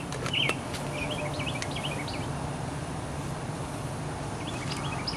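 Small birds chirping in short, repeated notes, thickest early on and again near the end, over a steady low hum of outdoor background noise. A couple of light clicks about half a second in.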